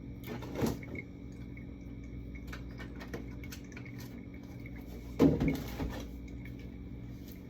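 Milk being poured from one plastic jug into another to combine them, a soft liquid pouring sound, with a louder knock a little after five seconds in.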